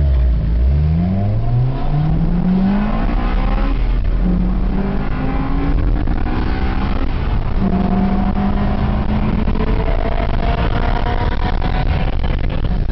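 Car engine accelerating hard through the gears under full throttle. Its pitch climbs, drops back at each gear change and climbs again, more slowly in the higher gears.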